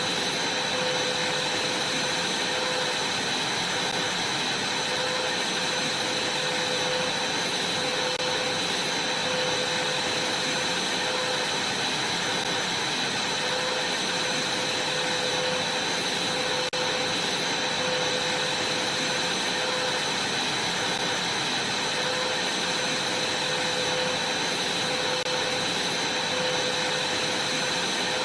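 Vacuum cleaner running steadily, a constant rushing noise with a high steady whine.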